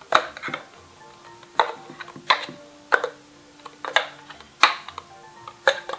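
A spoon knocking against a bowl about seven times at uneven intervals while coconut paste is mixed into vegetables, the bowl ringing briefly after several knocks.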